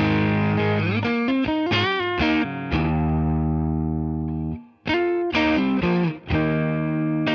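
Electric guitar played through a Fender Tone Master Deluxe Reverb amp. A held chord gives way to a quick phrase with bent notes about two seconds in, then a chord left ringing and fading. After a brief stop about five seconds in, more strummed chords follow.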